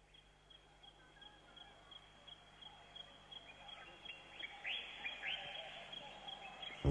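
Birdsong fading in: short high chirps repeating about three times a second, with a few louder downward-sweeping calls about two-thirds of the way in.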